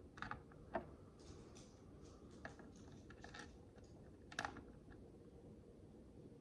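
Tiny plastic micro bricks clicking as they are handled and pressed together: faint, irregular small clicks, the sharpest just under a second in and again a little past four seconds.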